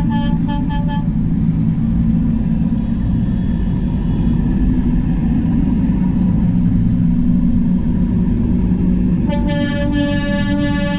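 Diesel tractor engines rumbling steadily as a convoy passes, with a vehicle horn giving short toots in the first second and sounding again in a run of repeated toots from about nine seconds in.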